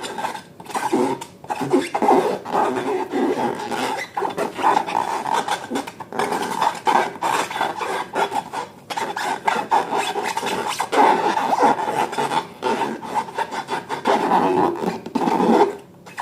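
Rubber balloons and slime being rubbed and squeezed by hand: a rasping, squeaky rubbing that comes in short strokes with brief pauses.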